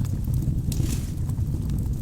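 Wood fire burning in a fireplace: a steady low rumble of the flames with scattered sharp crackles, and a brief hiss a little under a second in.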